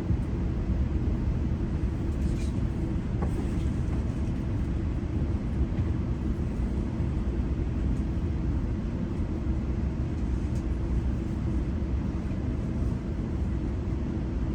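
GO Transit commuter train running along the track: a steady low rumble of wheels on rail, with a few faint ticks.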